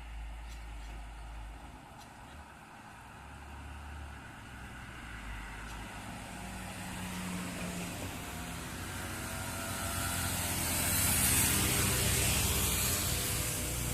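A road vehicle's engine running and drawing nearer, getting steadily louder, with a rising hiss near the end as it comes close.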